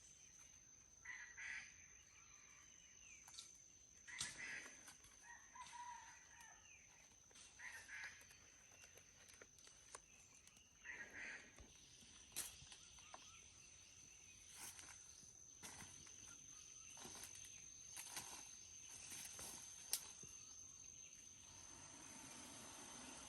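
Faint bird calls, short and repeated every couple of seconds, over a steady high-pitched tone, with scattered clicks and knocks in the second half.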